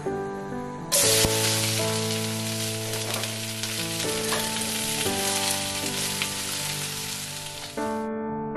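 Chopped red and yellow bell peppers sizzling in hot oil in a wok, stirred with a wooden spatula. The sizzle starts suddenly about a second in and cuts off shortly before the end.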